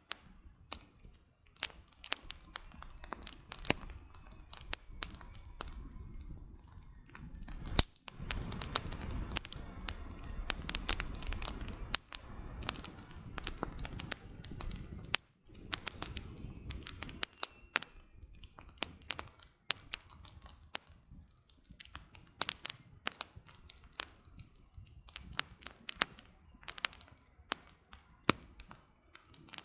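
Wood campfire crackling, with many sharp snaps and pops of burning firewood at irregular intervals. From about 8 to 15 seconds in there is a louder stretch of low, even rushing noise under the crackle.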